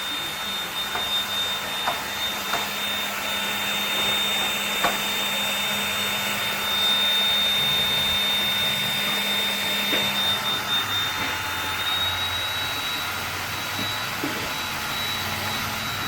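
AEG CR7 cordless stick vacuum, fitted with a brushless motor and ESC, running steadily on battery with a high whine and a rush of air. The whine shifts slightly higher about twelve seconds in.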